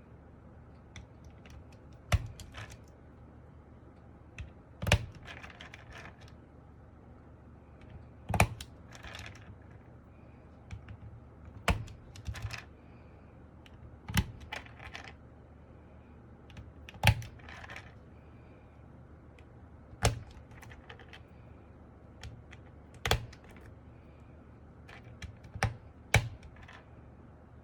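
Keys pressed one at a time on an MK870 mechanical keyboard with Sky Panda switches and Cherry-profile dye-sub keycaps. A sharp clack comes about every three seconds, with fainter clicks in between.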